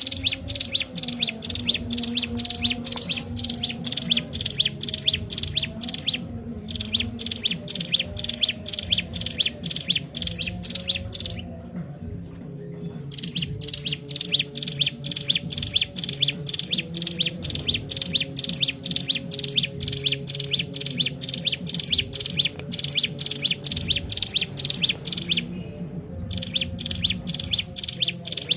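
Ciblek gunung, a prinia, in full song: long runs of rapid, high chirps repeated several times a second. The runs break off briefly three times: once about a quarter of the way through, for a longer pause just before halfway, and again near the end.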